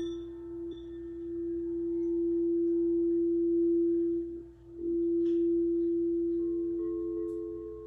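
Quartz crystal singing bowls ringing: one steady, low tone that swells and fades, dipping almost away about four and a half seconds in, with a second, higher bowl tone joining near the end.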